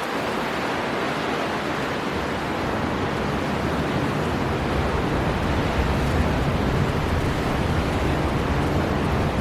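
Storm wind blowing hard over crashing sea surf: a steady, dense rushing noise with a deep rumble that grows a little stronger after the first couple of seconds.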